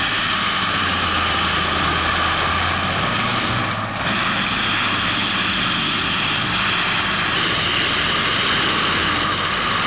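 A loud engine running steadily, with a brief break about four seconds in.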